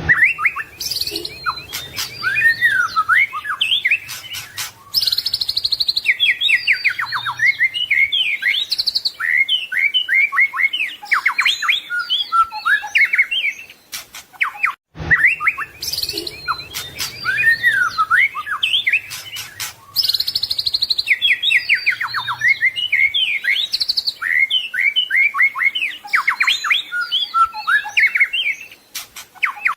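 White-rumped shama (murai batu) singing a fast, varied song of whistles, trills and chirps packed with mimicked phrases. About halfway through there is a brief cut, and the same stretch of song repeats.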